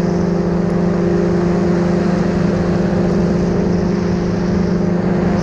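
Paratrike engine and propeller running steadily in flight: a constant, even drone that holds one pitch without change.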